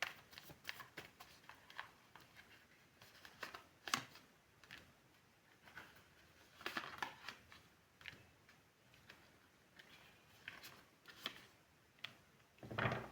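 Tarot cards being handled: faint, scattered rustles and light clicks as cards are shuffled and drawn, with one sharper tap about four seconds in.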